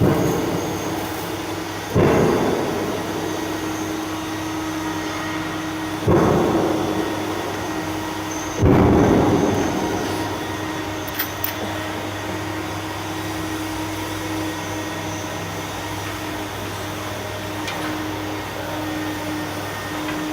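Wood crusher (sawdust machine) running on a test run with a steady hum. Four loud noisy surges rise over it, each dying away within a second or two.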